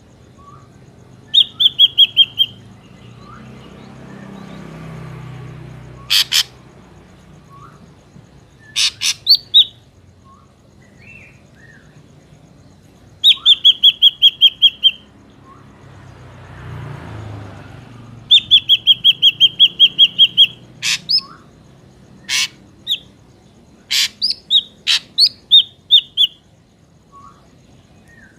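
Ashy drongo calling: three runs of rapid, evenly spaced high notes, the longest about two seconds, with single sharp short notes in between.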